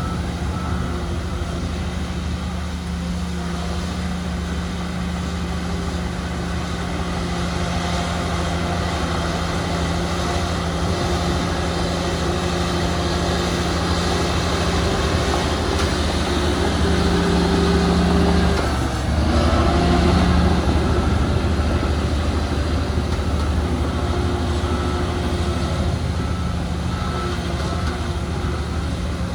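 Heavy diesel earthmoving machinery running steadily, a deep engine drone that swells about two-thirds of the way through, drops out for a moment, then picks up again. A faint repeated beeping comes and goes in the background.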